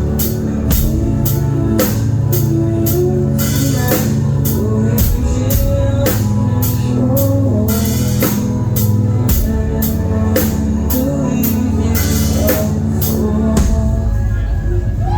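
Live rock band playing loud: a drum kit keeping a steady beat with cymbal hits about two to three times a second over sustained bass and guitar, with a voice singing over it.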